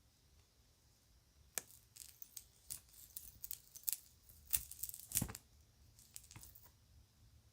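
Kids' jewelry and its bag being handled: a run of light clicks and crinkly rustles starting about a second and a half in, busiest in the middle, and stopping about a second before the end.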